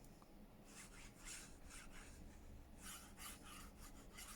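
Faint, irregular rubbing strokes on paper or card, a few to the second, as a paper craft piece is worked by hand.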